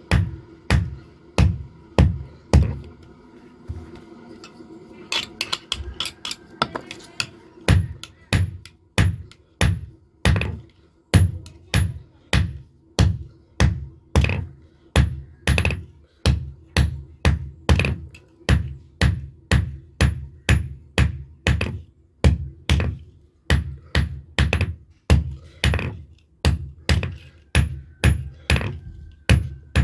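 Blacksmith's hand hammer beating a knife blade in an even rhythm of about two blows a second, pausing briefly about three seconds in before resuming.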